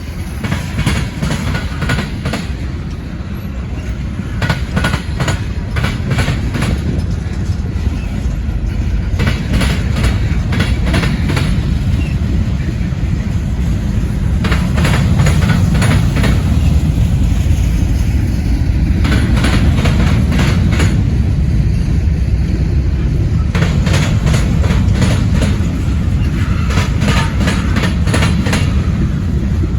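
Freight train of tank cars rolling past close by: a steady low rumble of wheels on rail, with a group of clicks every few seconds as each car's wheel sets cross the rail joints.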